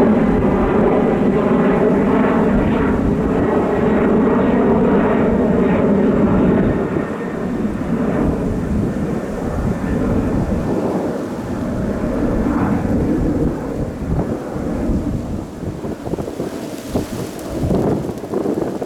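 Jet airliner engines roaring as a large jet passes near the airport, loud for about the first seven seconds, then fading into an uneven, crackling rumble.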